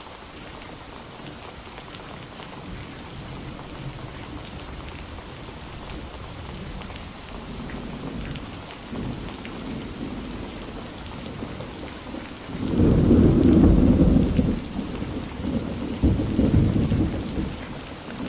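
Steady rain falling, with thunder rumbling in the background that swells about halfway through into a loud roll of thunder, followed by a second, shorter rumble near the end.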